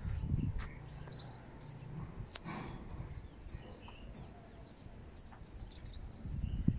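Small birds chirping, short high chirps repeating a couple of times a second over faint outdoor background noise. A low steady hum runs under it for the first two seconds or so, and a single sharp click comes a little after two seconds in.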